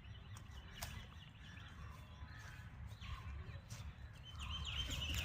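Birds chirping faintly and intermittently over a steady low rumble, the chirps coming thicker near the end.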